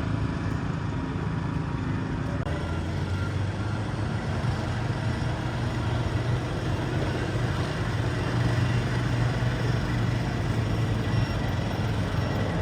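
Garden tractor engine running steadily, growing a little louder about eight seconds in.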